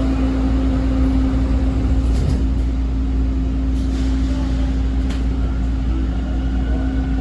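Toronto TTC T1 subway train running between stations, heard from inside the car: a steady low rumble of wheels on track under a constant motor hum, with a few faint clicks and a faint higher whine coming in near the end.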